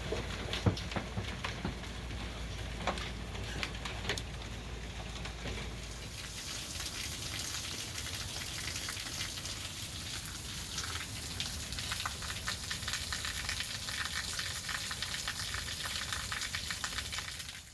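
Large hailstones, golf-ball size, striking hard surfaces: separate sharp cracks at first, the loudest about a second in and near three seconds, then from about six seconds a dense, continuous clatter as the hail and rain come down harder.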